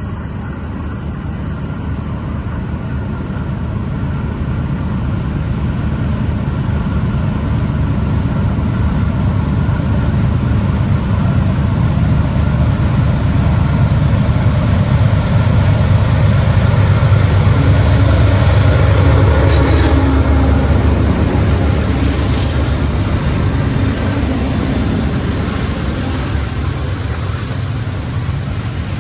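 Diesel freight train passing: a steady low rumble of locomotives and rolling cars that slowly grows louder, peaks about two-thirds of the way through, then eases off.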